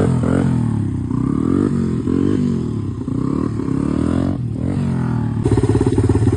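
Honda XR80's small single-cylinder four-stroke engine being blipped, its pitch rising and falling again and again. About five seconds in it settles into a steadier, louder run. It is running just after a new clutch was fitted and adjusted.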